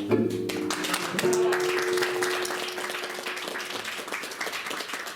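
The last chord of an acoustic guitar rings out and fades while a small audience claps; the applause dies away gradually.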